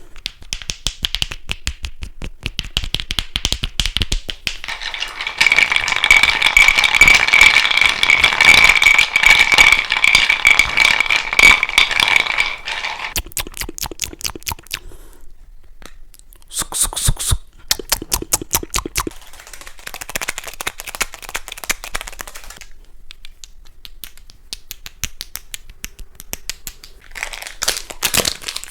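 Fast ASMR triggers close to the microphone: rapid tapping, rattling and scratching, switching to a new sound every few seconds. The loudest stretch, from about five seconds in to about thirteen, carries a steady high ring among the quick taps.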